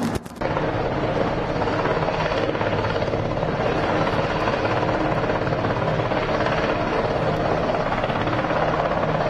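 Helicopter running steadily, a continuous rotor and turbine noise heard close. It begins abruptly just after the start.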